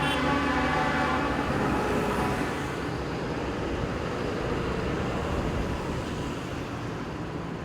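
A vehicle horn held in one long blast that fades out about two and a half seconds in, over a low rumble of idling engines and street noise.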